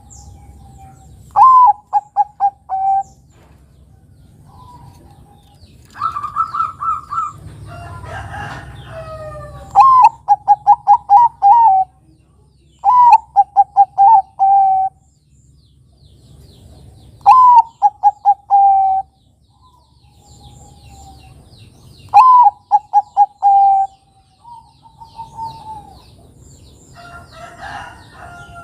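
Zebra dove (Bangkok-type perkutut) cooing its song: about six phrases, each a rising opening note followed by a quick run of short, slightly falling coos. A noisier bird call breaks in about eight seconds in.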